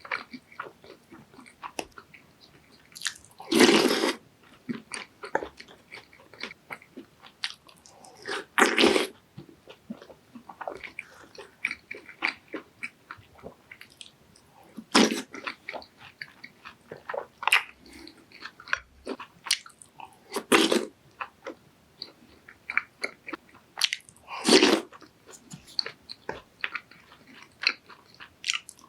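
Close-miked eating: biting into and chewing fried twisted doughnuts and glutinous rice doughnuts, with many small crunches and moist chewing clicks. Five louder bursts of noise come every few seconds.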